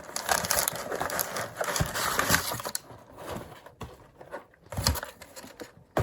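Cardboard box and packaging being handled during unboxing: irregular rustling and crinkling, with a few soft knocks.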